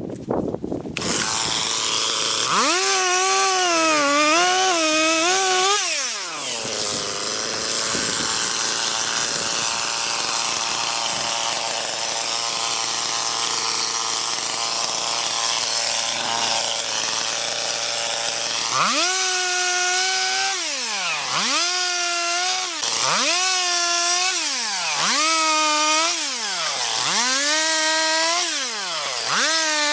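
Stihl MS290 Farm Boss two-stroke chainsaw starting up and running. It wavers at high revs under load at first, then runs steadier, and near the end is throttled up and let off repeatedly, about every second and a half, while cutting a log.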